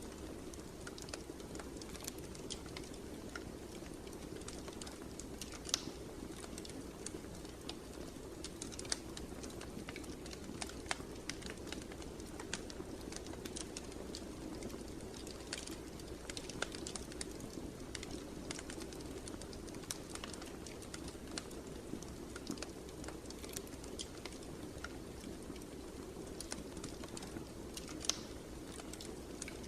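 Fireplace fire crackling and popping at irregular intervals over a steady low rumble of burning, with one sharper snap near the end.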